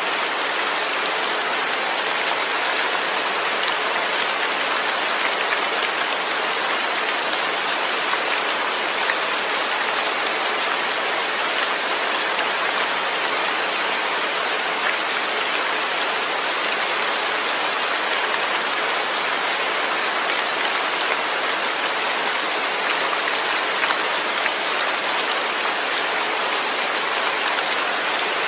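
Steady rain: an even hiss of countless falling drops, with faint individual drop ticks and no thunder.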